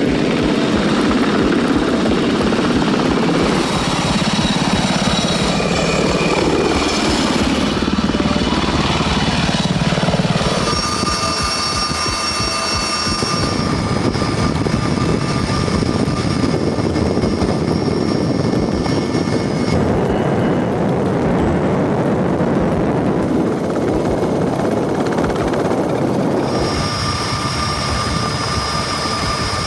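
Helicopter rotors and turbine engines running steadily and loudly, with thin steady whines over the rotor noise. The sound changes character about ten seconds in and again near the end.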